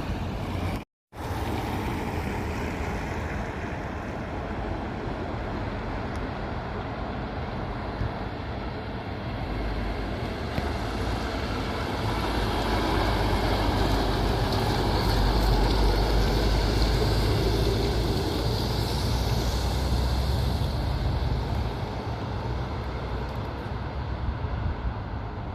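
Heavy trucks driving past on a road, with steady traffic noise and a low engine rumble that swells to its loudest past the middle and then eases off. Near the start the sound drops out completely for a moment, like an edit cut.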